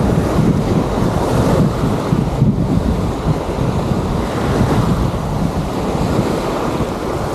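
Wind buffeting the microphone over small surf washing on a sandy shore, a steady rumbling noise with no breaks.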